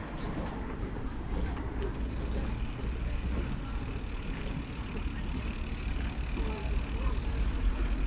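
Steady wind rumble on the microphone and road noise from riding a bicycle along a road.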